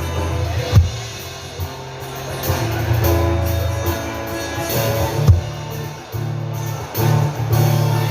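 Sertanejo ballad played by a band between sung lines: strummed guitar over sustained bass notes, with drum hits about a second in and again past the middle.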